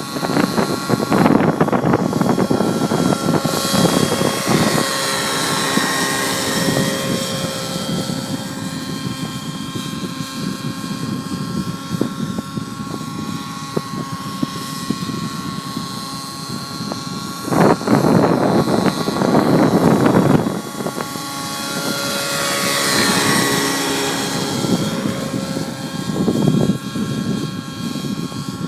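Align T-REX 700 Nitro radio-controlled helicopter's nitro engine and rotor running steadily in flight, the whine rising and falling in pitch as it moves about. Strong wind buffets the microphone in gusts, loudest about two-thirds of the way in.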